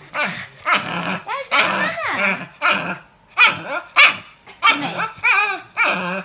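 Pug making strange, un-doglike vocal noises: a rapid run of short calls whose pitch bends up and down, about a dozen in a few seconds.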